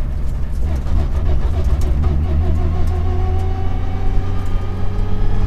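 Mitsubishi Lancer Evo 6 rally car's turbocharged four-cylinder engine pulling away, its pitch rising over the first few seconds and then holding steady. The engine has a misfire.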